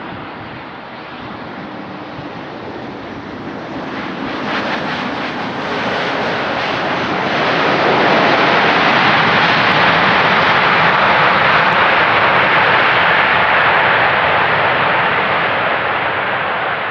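Boeing 737 MAX 8's CFM LEAP-1B jet engines, a steady rushing roar that grows louder over several seconds, holds loud, then begins to ease near the end.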